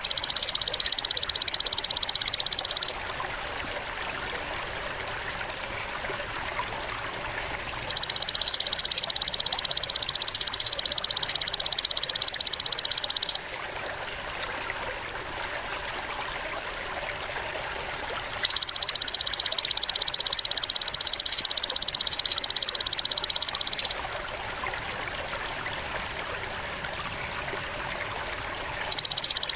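Insect buzzing in a loud, high-pitched, rapidly pulsed trill that lasts about five seconds, stops for about five seconds, and starts again. It runs three times, a fourth beginning near the end, with a faint hiss in the gaps.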